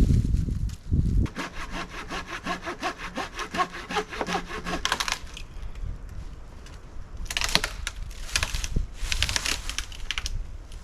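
Hand saw cutting through wood in a quick run of strokes lasting a few seconds, then a pause and two shorter bursts of sawing near the end.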